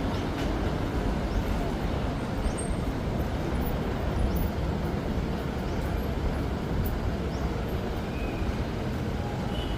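Steady, low outdoor rumble with a few faint, short, high chirps scattered through it.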